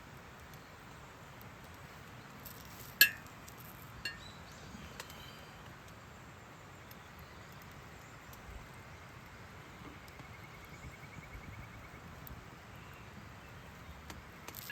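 A single sharp clink about three seconds in, with a brief ring, followed by a couple of faint clicks. A faint high, rapid trill comes near the middle, over a quiet outdoor background.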